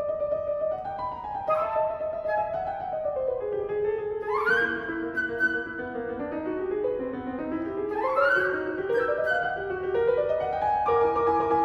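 Flute and piano playing contemporary classical music: held notes over fast rising runs, about four and eight seconds in.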